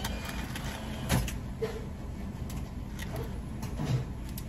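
Car idling, heard from inside the cabin as a steady low rumble, with two soft knocks, one about a second in and one near the end.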